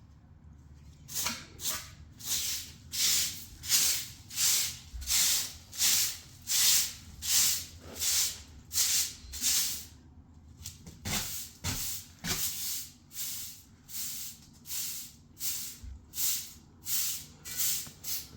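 Repeated rhythmic scraping strokes, about one and a half to two a second, with a short break about ten seconds in before they resume.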